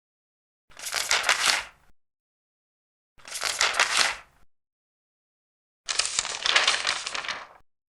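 Large paper pages being turned, three times, each turn a crinkly rustle lasting about a second and a half. The third turn is longer and reaches less high.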